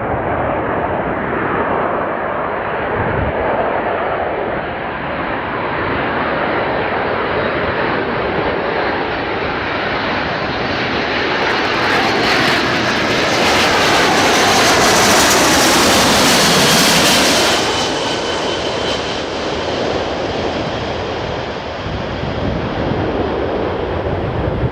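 Jet airliner passing close by with its engines running: the noise swells to its loudest a little past the middle for several seconds, with the engine whine gliding down in pitch as it goes by, then eases off.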